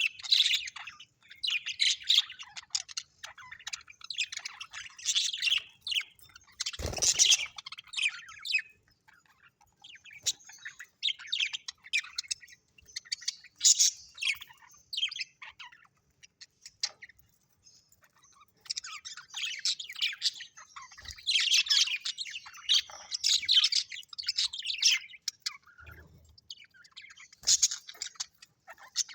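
Birds chirping in dense clusters of quick, high calls, separated by short pauses. A single sharp knock sounds about seven seconds in.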